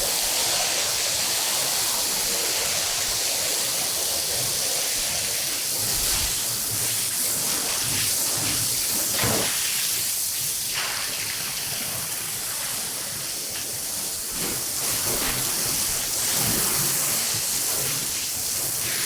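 Water spraying steadily onto a carpet, a continuous rushing hiss.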